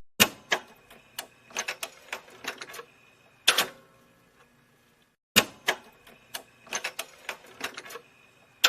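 Irregular light clicks and clacks of small hard objects, in two runs of a few seconds each with a short quiet gap between.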